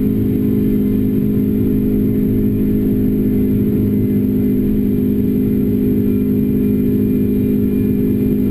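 Renault Clio RS engine through a Bastuck aftermarket exhaust, running under load at a steady, unchanging pitch with no gear changes, as when holding speed through a long fast stretch of track.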